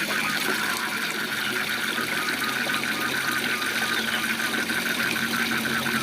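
Waterfall rushing steadily, with frogs calling over it in a fast series of short repeated notes, about four a second.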